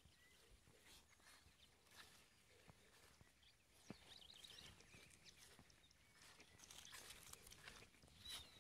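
Near silence: faint outdoor ambience with a few distant bird chirps, clustered about four seconds in, and scattered small clicks.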